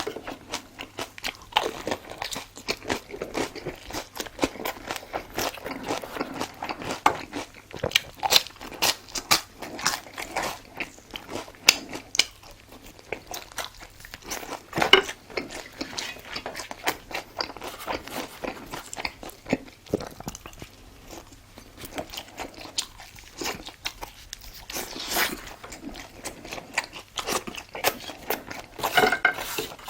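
A person biting and chewing crunchy food close to the microphone, with irregular crisp crunches throughout and a few louder bites about halfway through and near the end.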